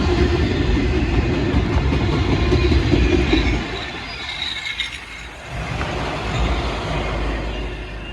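Freight train cars rolling past on the rails with a loud low rumble. The rumble drops away about halfway through, swells briefly again and fades near the end.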